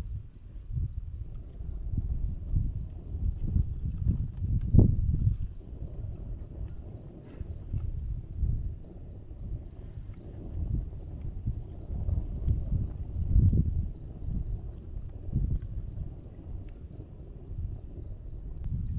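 A cricket chirping in an even, high-pitched pulse of about three chirps a second, over a louder, uneven low rumble that swells and fades.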